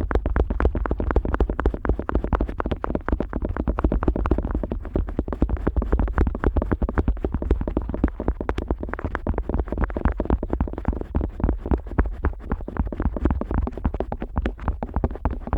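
An otoscope rubbing and flapping against the rubber outer ear of a Neumann KU100 dummy-head microphone, heard right at the ear: a fast, unbroken run of soft, muffled rubs and thuds.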